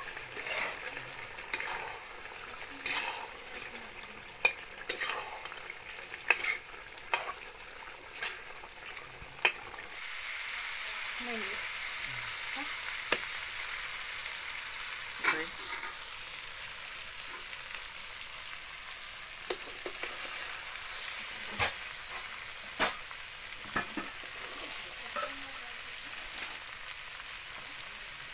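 Pork frying in a pan while it is stirred, with frequent sharp knocks of the stirring utensil on the pan. About ten seconds in, a louder, steady sizzle takes over and the knocks come less often.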